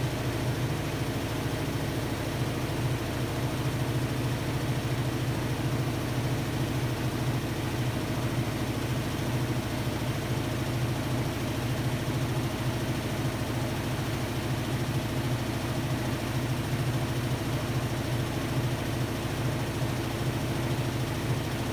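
Hotpoint-Ariston Aqualtis washer-dryer running with a steady, even low hum.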